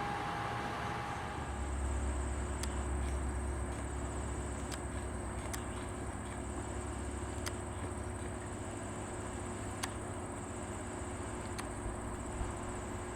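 A steady high-pitched insect trill starts about a second in and holds unbroken over a low rumble, with a few sharp clicks now and then.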